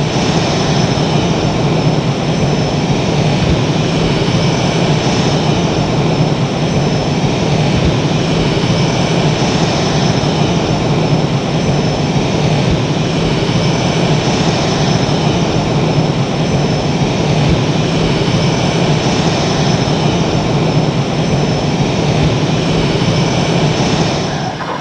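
Jet engines of the Blue Angels' F/A-18 Hornets running steadily and loudly on the ramp, a constant roar with a high whine over it.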